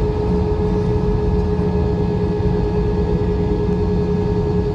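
Cabin noise inside an Airbus airliner taxiing: a steady low rumble from the jet engines at low power, with a steady humming whine over it.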